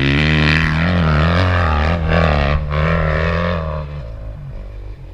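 Four-stroke dirt bike engine running close by at a steady, low speed with small rises and dips in pitch, then dropping away about four seconds in.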